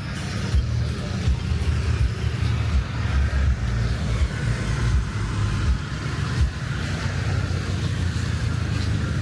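Street traffic: cars passing steadily on a busy road, with a constant heavy low rumble.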